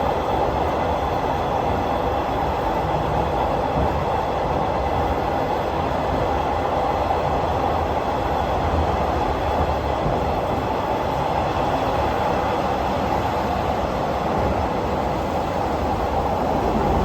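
Passenger train running steadily, heard from inside the carriage: a continuous rumble and rolling noise of wheels on rail that holds even throughout.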